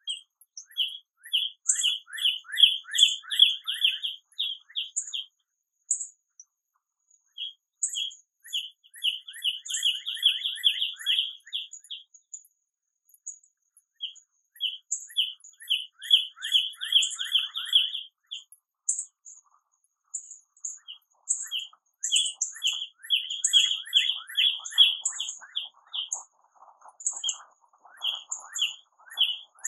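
Songbirds singing. Each phrase is a quick run of clear chirps lasting about four seconds, and a new phrase starts every six seconds or so, with thin high calls in between. A lower, rougher chatter comes in near the end.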